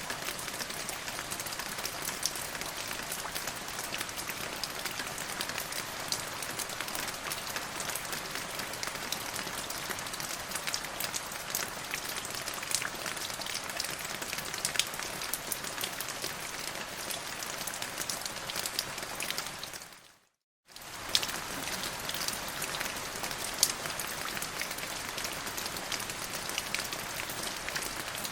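Steady rain falling, with individual drops ticking sharply on a hard surface over an even hiss. About twenty seconds in it fades out for a moment, then comes back.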